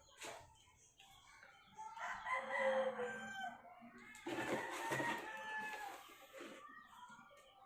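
Two long calls from a bird, the first starting about two seconds in and the second about four seconds in.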